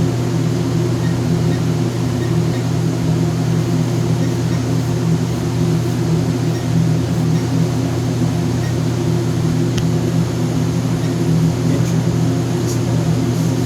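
Steady low mechanical hum from running equipment, unchanging throughout.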